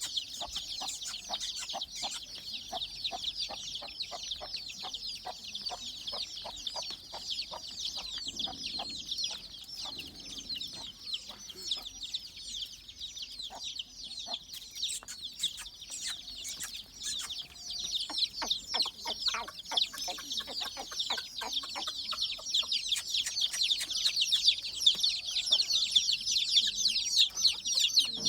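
A big brood of chicks peeping non-stop, many high chirps overlapping into a continuous chatter that grows louder near the end. Through the first half a hen clucks in quick repeated notes beneath it.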